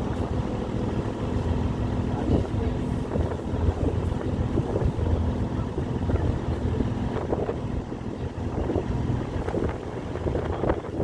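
Boat engine running steadily, a low drone with a faint steady hum, with wind buffeting the microphone.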